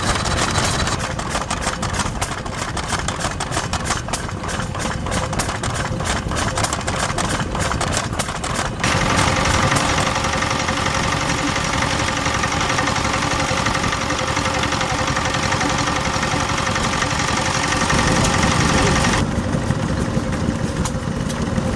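Vintage stationary engines running steadily at idle. The first engine has an even, regular firing beat. About 9 seconds in, the sound changes abruptly to a louder engine with a steady tone, and it changes again near the end.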